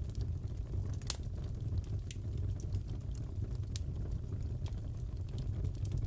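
Crackling wood fire in a fireplace: a steady low rumble with scattered sharp crackles and pops, the loudest about a second in.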